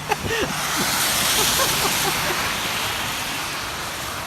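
A car passing on a wet road, its tyres hissing through the water; the hiss swells to a peak about a second and a half in, then slowly fades, over steady rain.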